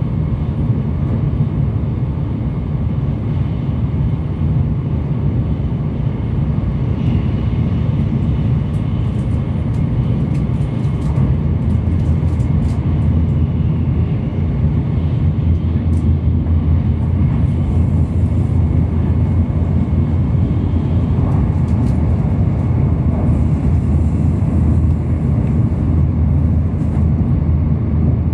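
Tokaido Shinkansen train running, heard from inside the carriage: a steady low rumble of the ride that grows a little heavier about halfway through, with a few faint clicks.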